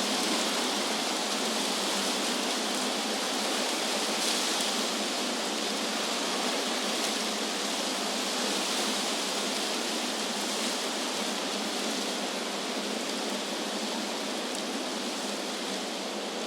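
Wind blowing through trees: a steady rushing hiss that swells slightly a few seconds in and eases a little near the end.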